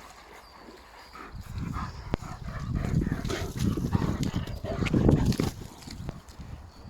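East European Shepherd dog close to the microphone, making a rough, low rumbling sound that starts about a second in and eases off near the end.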